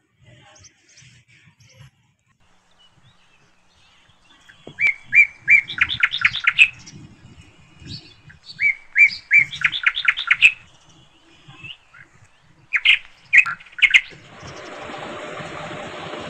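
A small bird singing: two runs of quickly repeated chirping notes, each about two seconds long, then a few scattered notes. Near the end a steady rushing noise takes over.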